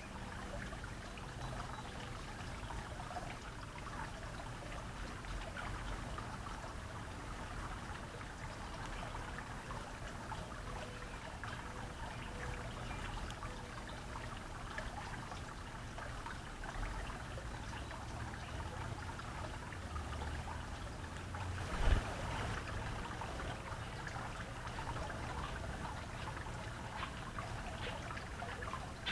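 Water trickling steadily, with a single short knock about three-quarters of the way through.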